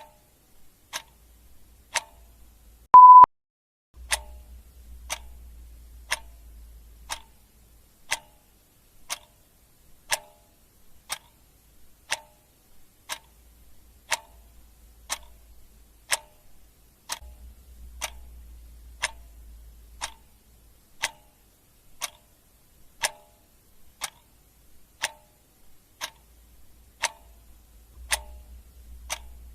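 Clock ticking steadily, one tick a second. About three seconds in, a single short, loud high-pitched beep sounds over the ticking.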